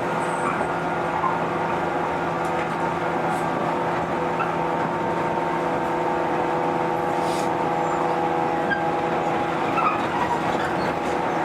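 Running noise of a JR 115-series electric train heard inside the passenger car: a steady rumble with a steady motor and gear hum, the train running at an even speed.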